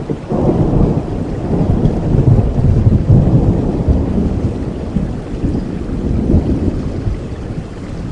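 Thunder rumbling over steady rain. The rumble swells about half a second in, is loudest around two to three seconds in, then slowly dies away.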